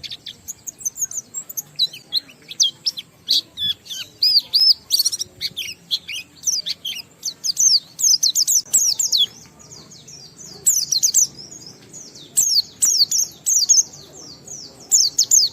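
White-eye (pleci) singing a long, fast run of high twittering notes: the continuous 'ngalas' song that keepers play to prompt other white-eyes to sing. The run breaks off twice in the second half for about a second.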